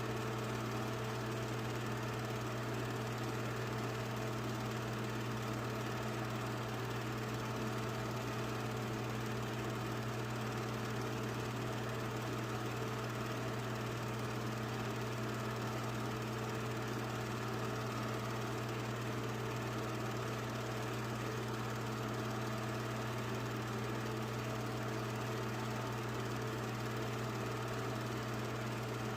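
A steady, unchanging hum of a small motor running.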